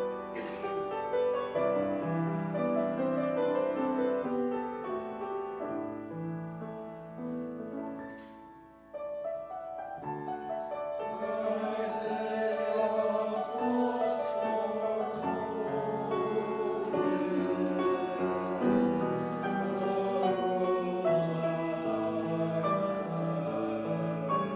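Choir singing with piano accompaniment in sustained chords. About eight seconds in the music fades almost away, then comes back fuller.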